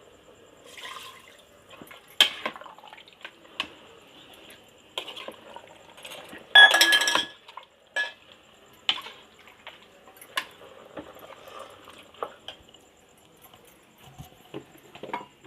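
Metal utensils clinking and scraping against a cooking pot of chicken masala as water is poured in and stirred, with a louder clatter about six and a half seconds in.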